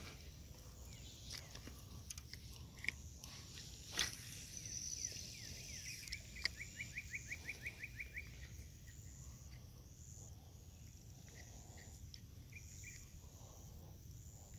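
Faint birdsong: scattered high chirps and, around the middle, a rapid trill of about a dozen quick notes lasting about two seconds. A couple of sharp clicks stand out earlier.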